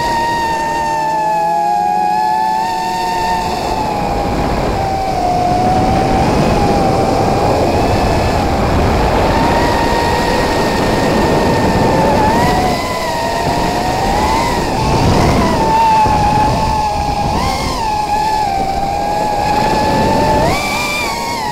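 Racing quadcopter's electric motors and propellers whining, the pitch dipping and rising again and again as the throttle changes, over a steady rush of air noise, recorded from the drone's onboard camera.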